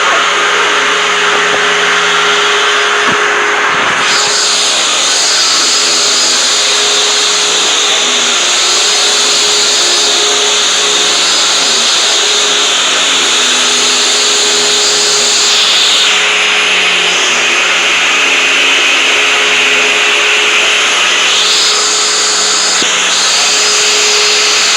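Vacuum cleaner running steadily with a constant hum under a loud rushing hiss. The hiss brightens about four seconds in, then dulls and brightens again twice later on.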